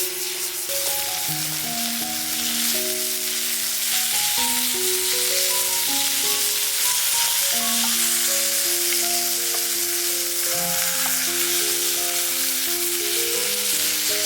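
Food sizzling in a frying pan, a steady dense hiss, with background music playing a slow melody of held notes over it.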